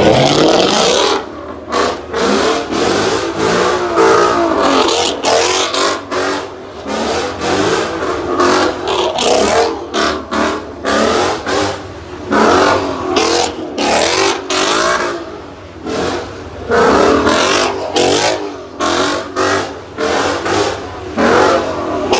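Car engines revving hard over and over in short bursts, the pitch climbing and falling with each rev, with sudden drops between them.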